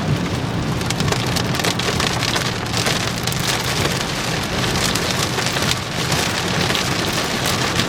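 Heavy rain pelting a moving vehicle, heard from inside as a dense patter of countless drop hits, over a steady low road rumble.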